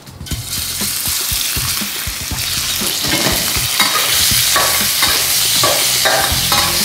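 Pieces of pork belly sizzling in hot oil in a wok, the hiss starting about half a second in and staying loud. From about three seconds in, a metal ladle scrapes and taps the wok as the pork is stir-fried.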